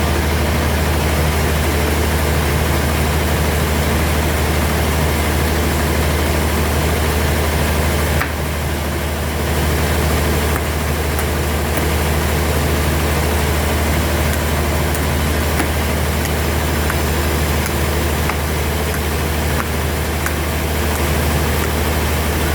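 Sawmill machinery running steadily with a strong low hum, dipping slightly for a moment about eight seconds in.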